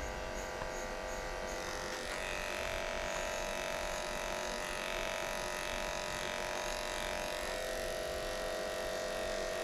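Electric dog grooming clippers with a number 5 blade running steadily as they trim a puppy's belly fur, a constant buzzing hum whose tone shifts slightly about two seconds in.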